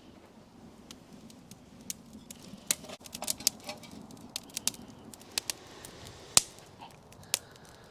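A string of irregular sharp clicks and snaps, over a dozen, coming most thickly between about three and four seconds in, with the single loudest snap about six seconds in.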